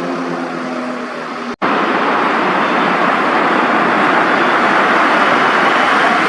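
Motorcycle engines running at a steady pitch. About a second and a half in they cut off abruptly, giving way to a steady, loud rushing noise with no clear engine tone.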